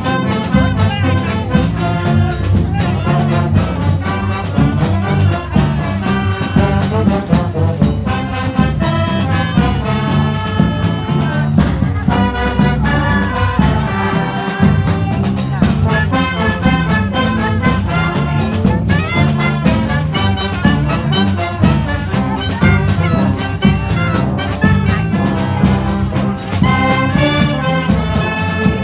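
Brass band playing a lively tune, horn melody over a steady percussion beat.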